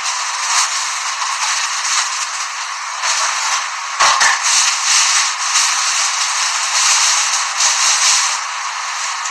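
Kitchen handling noises heard through a phone's narrow, hissy audio: rustling and scraping, with a few sharp knocks, the loudest about four seconds in.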